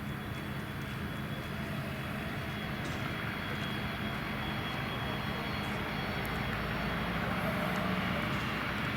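Cessna 525C CitationJet 4's twin turbofan engines, a steady jet noise with a thin high whine, growing gradually louder as the business jet comes in to land.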